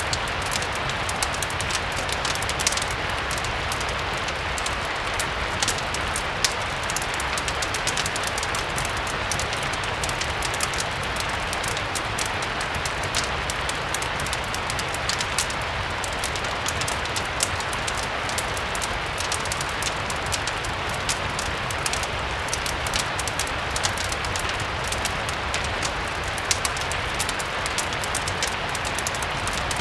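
Steady rain mixed with a wood fire crackling, with frequent sharp pops scattered over an even hiss of rain and a low steady rumble underneath.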